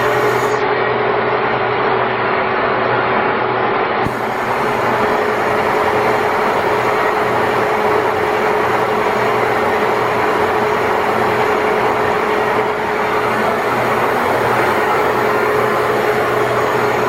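Belt-driven machine tools and line shafting running in a steam-powered machine shop: a steady mechanical clatter with a constant hum.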